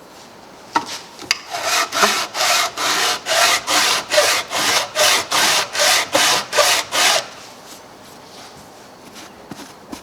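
Warped thermostat housing rubbed back and forth across an abrasive by hand to flatten its mating face, in about fourteen even rasping strokes, roughly two a second, stopping about seven seconds in.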